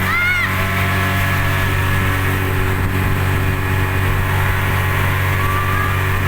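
Speedboat engine running steadily under way, an even hum with water and wind noise, and a brief high rising-and-falling voice cry near the start.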